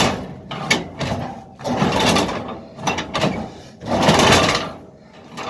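1951 Ford E493A side-valve four-cylinder engine being turned over with the hand starting handle: three heavy swells about two seconds apart, one for each swing of the crank, without the engine catching. It keeps nearly starting, which the owner puts down to having nobody on the accelerator.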